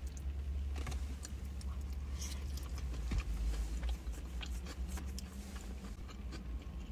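A person chewing food, with faint clicks and small handling noises, over a steady low hum.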